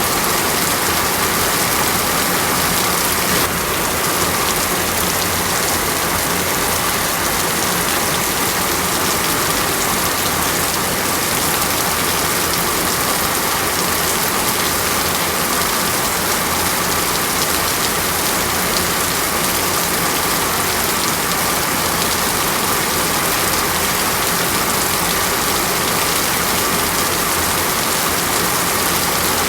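Heavy rain in a tropical rainforest, falling steadily as an even, unbroken hiss.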